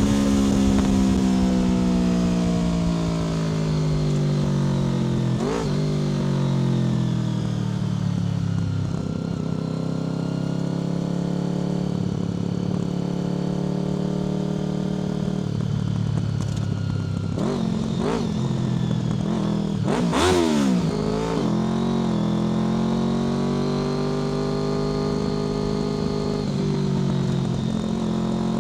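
Honda VFR800 FI's V4 engine through a Black Widow aftermarket exhaust while riding: the revs fall away over the first several seconds as the bike slows, with brief rev blips about six seconds in and twice more about two-thirds of the way through, then the engine holds a steady pitch.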